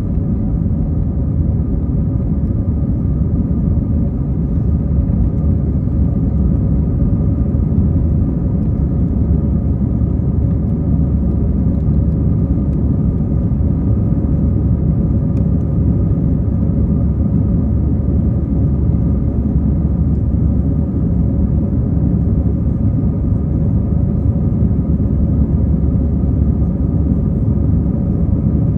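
Airbus A320 jet engines and airflow during takeoff: a steady, loud low rumble with a steady engine hum over it.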